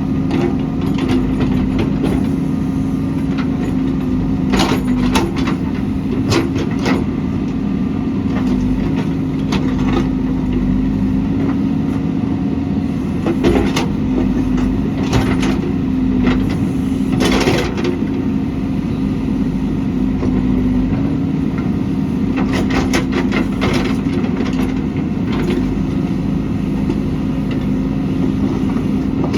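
JCB backhoe loader's diesel engine running steadily, with scattered sharp knocks and clatter.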